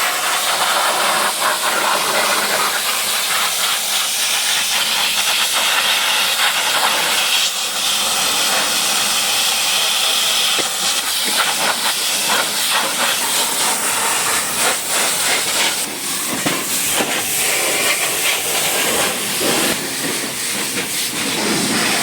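High-pressure washer spray hissing steadily against a vehicle's body, with a crackling spatter and brief dips as the jet moves.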